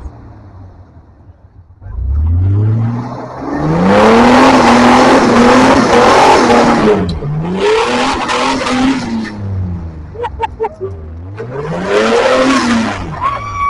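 Off-road 4x4's engine revving hard in three long surges on a hill climb, its pitch rising and falling with each push, with noisy wheel spin beneath. There are quieter lulls between the surges.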